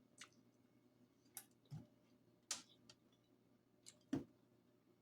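Quiet close-up eating sounds: about six sharp clicks and mouth smacks while chewing, two of them with a soft low thump.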